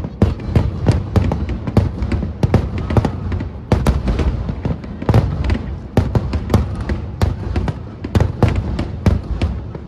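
Fireworks display in a rapid barrage: sharp bangs of bursting shells come several times a second over a continuous low rumble of booms.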